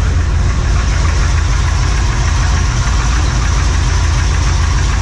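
1970 Corvette's LT1 350 small-block V8 idling steadily through long-tube headers and Magnaflow mufflers, its cam audible in the idle.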